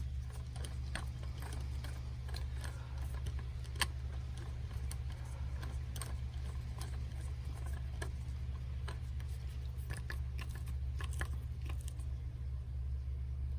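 Screwdriver turning and snugging up the handle screw on a Woodford Model 24 hose bib: scattered small metallic clicks and scrapes, over a steady low hum.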